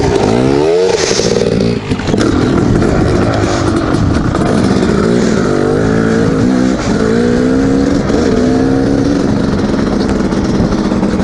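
Dirt bike engine running hard while riding, its pitch rising and falling with the throttle, with a short drop about two seconds in.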